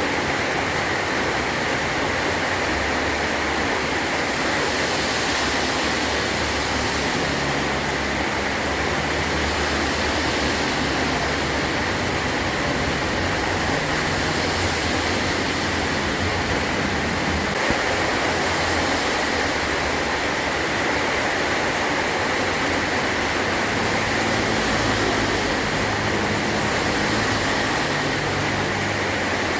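Heavy rain drumming steadily on a metal roof, a dense even patter.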